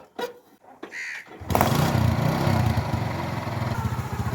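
A few sharp knocks, then a Petter diesel engine starts about a second and a half in and runs steadily with an even pulse. A crow caws once about a second in.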